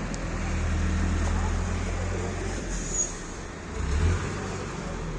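A heavy vehicle's engine running steadily at low revs, with a short high-pitched squeak about three seconds in and a brief rise in the engine sound just after four seconds.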